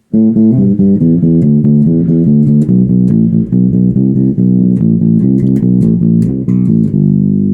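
Custom Zoot passive electric bass, a Wal Pro-style build, played through a Markbass head and 1x12 cabinet: a quick run of plucked notes with both pickups in series and both tone controls rolled fully off. This gives a dull tone with little treble. Near the end one note is held and rings on.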